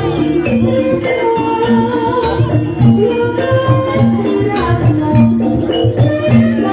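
Live jaranan accompaniment music from an East Javanese ensemble: a loud, steady rhythm of drums and percussion under repeated pitched notes and a gliding melody line.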